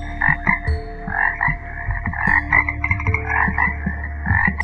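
A frog croaking in a rapid series of short calls, about four a second.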